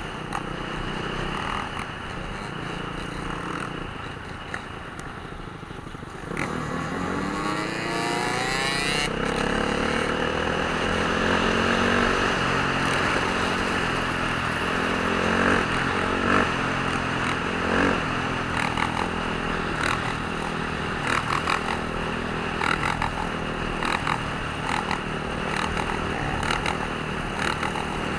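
Dirt bike engines running and revving, with a sharp climb in pitch about six seconds in as one accelerates.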